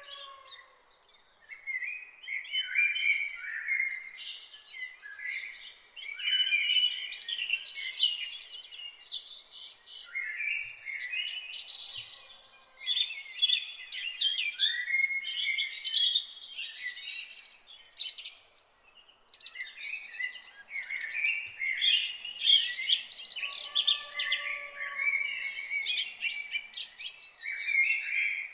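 Morning chorus of several songbirds singing at once: dense, overlapping chirps and trills with a couple of short lulls. A fainter, lower drawn-out call sounds three times beneath them.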